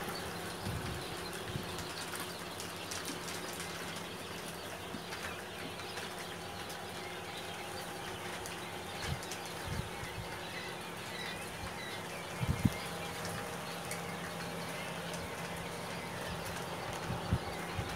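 Domestic birds in a pen: faint chirps and occasional wing flaps, with a few short thumps, over a steady hum. The loudest thump comes about twelve and a half seconds in.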